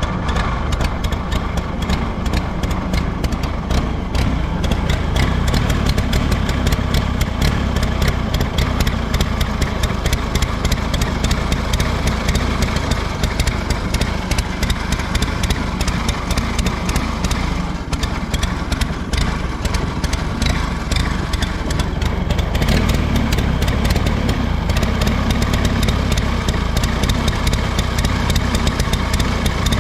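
Allis-Chalmers G tractor's small four-cylinder engine running steadily, acting like it's running rich, a fault the owner later traces to a sticking carburetor.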